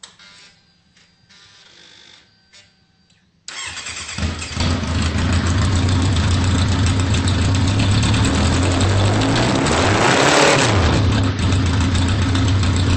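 2003 Kawasaki Z1000's inline-four engine starting about three and a half seconds in after a few faint clicks, then idling loud through short shorty GP exhaust pipes. Near the middle the throttle is blipped once, the pitch rising and falling before the engine settles back to idle.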